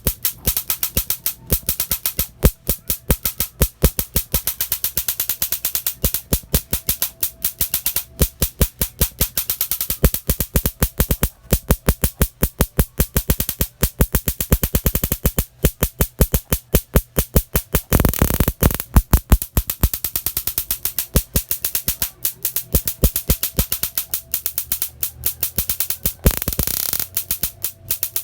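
Miniature Raider 150 motorcycle making rapid, sharp backfire pops, several a second in uneven runs, over a faint steady whine.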